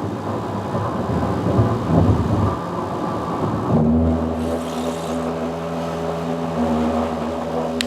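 Road and tyre noise inside a car cabin at highway speed. About four seconds in, the rumble gives way to a steady droning hum.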